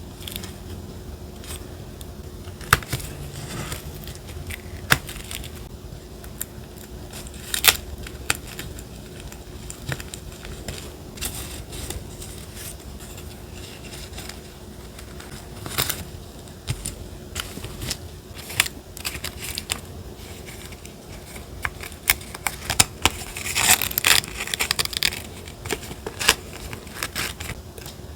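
Paper being handled for collage journaling: scattered taps and clicks of paper and stickers, with a stretch of crinkling and rustling paper near the end.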